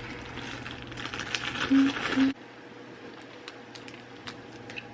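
Packaging rustling and crinkling as a pair of leggings is unwrapped. The rustle stops abruptly a little over two seconds in, leaving a few faint ticks.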